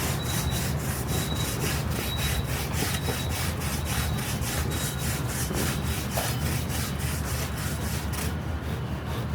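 Rhythmic rasping strokes, about four to five a second, over a steady low hum.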